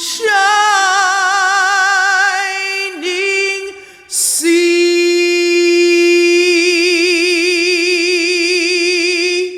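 A woman singing a cappella, with no accompaniment: a short phrase of held notes sliding slightly down, a quick breath about four seconds in, then one long note held with a widening vibrato until it stops near the end.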